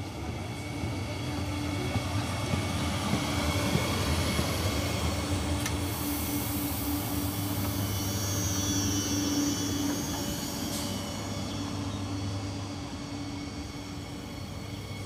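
Double-deck electric multiple unit (Régio 2N type) arriving and rolling slowly past along the platform: steady rumble of wheels on rail with a low electric hum, and a thin high whine about halfway through.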